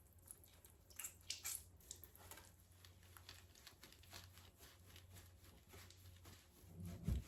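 Faint wet rubbing and squishing of a Labrador puppy's fur being washed by hand, with scattered small clicks over a steady low hum and a soft thump near the end.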